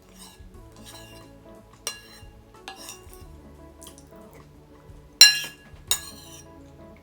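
Metal cutlery clinking and scraping against a dish while eating, with two loud ringing clinks, about a second apart, near the end. Background music plays throughout.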